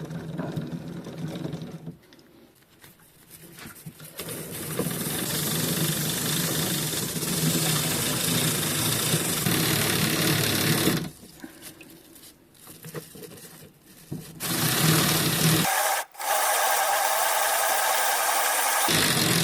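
A dirty bicycle chain being scrubbed clean of old grease: a steady rasping scrub in two long stretches, the first from about four to eleven seconds in, the second starting about fourteen and a half seconds in, with a brief break near sixteen seconds.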